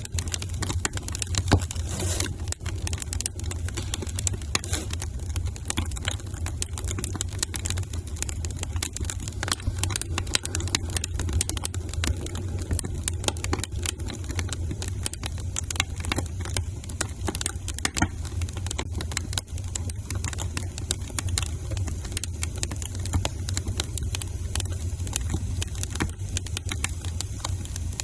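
Wood fire burning in a fireplace: steady crackling with frequent sharp pops and snaps over a constant low rumble.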